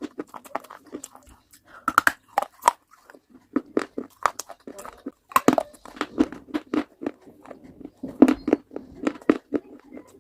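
Close-up crunching of a person biting and chewing hard baked clay pieces: a dense, irregular run of sharp cracks and crunches with chewing between bites.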